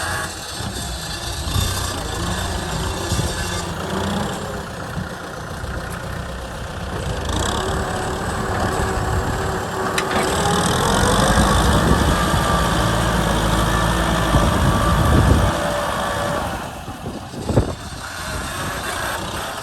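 Kubota M6040 tractor's four-cylinder diesel engine running, its pitch rising about eight seconds in and staying louder for several seconds before easing off. A sharp knock comes near the end.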